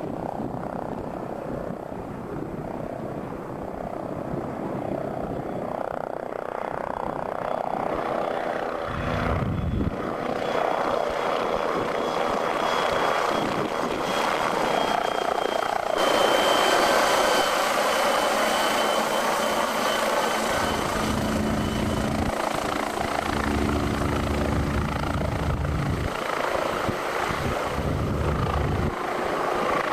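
MBB Bo 105 twin-turbine helicopter running, its rotor and turbines growing louder over the first half and then holding steady, with a thin high turbine whine and bursts of low rumble.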